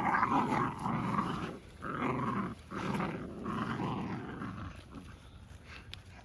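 American Bandog puppies growling in a run of rough bursts while tugging on a rag tug toy, dying away about four and a half seconds in.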